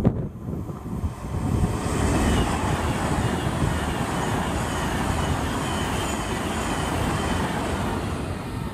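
A Virgin Trains express passenger train passing close by at speed: a steady rush of wheel and air noise that builds about two seconds in and eases off near the end, with a faint high whine over it.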